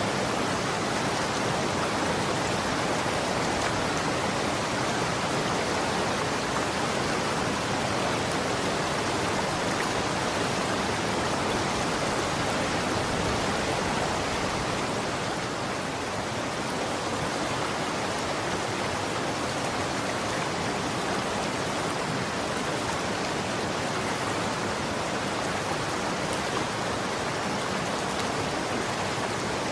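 Running water: a steady, even rush of flowing water, easing slightly about halfway through.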